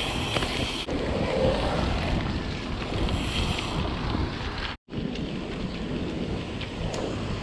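Wind buffeting the microphone of a camera on a moving mountain bike, a steady rushing noise heavy in the lows. It cuts out completely for a split second a little past halfway.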